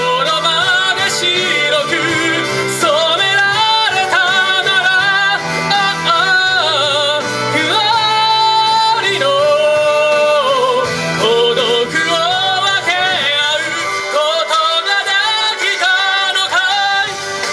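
A singer performing a song live over instrumental backing music, with long held notes that waver in pitch.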